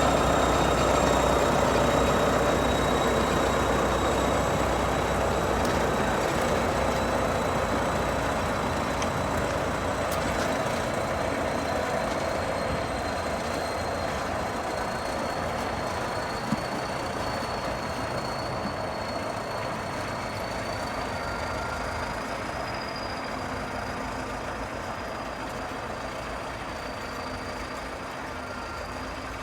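Heavy Soviet diesel snow-clearing machine running, with a steady high whine above the engine noise, growing gradually quieter.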